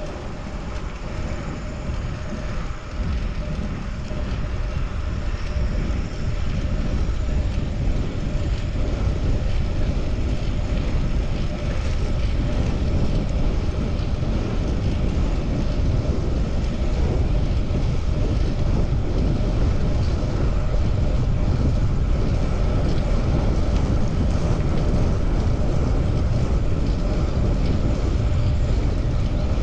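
Wind rushing over the microphone of a camera on a moving bicycle, mixed with road and traffic noise. It builds over the first several seconds and then holds steady.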